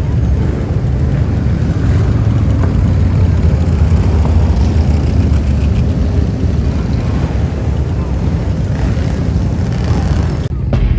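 Several motorcycle engines running in a street, a steady low rumble with voices mixed in.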